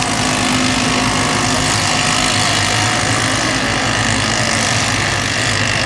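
Small engines of several kids' mini race trucks running together on the track, a steady drone with no single engine standing out.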